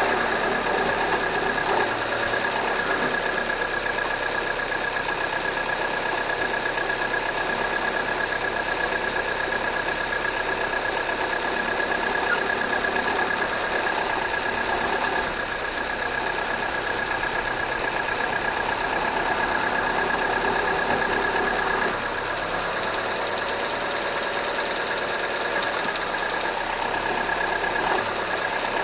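Ford Fiesta 1.4 four-cylinder engine idling, with a steady ticking that the owner says comes only after a cold start and stops after about five minutes.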